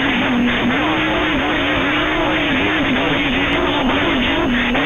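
CB radio receiver noise: steady hiss and static with a whistle tone that wavers up and down, as signals overlap on the channel.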